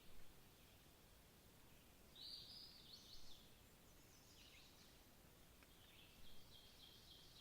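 Faint songbird calls over quiet background hiss: a few short, high, sliding chirps in the middle, then a quick run of repeated high notes near the end.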